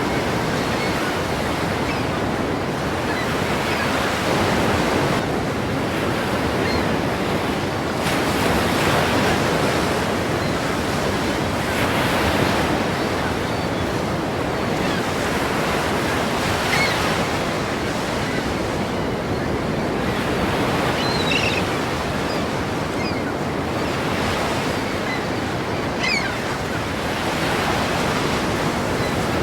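Ocean surf: waves breaking against a pier, a continuous wash of water that swells every four seconds or so as each wave comes in.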